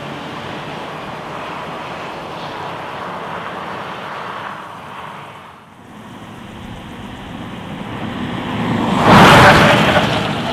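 A car driving past: a steady rush of road noise dips briefly, then builds to a loud peak about nine seconds in and fades away.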